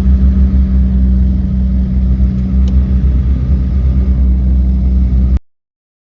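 Vehicle engine running with a steady low drone and rumble, cutting off suddenly about five seconds in.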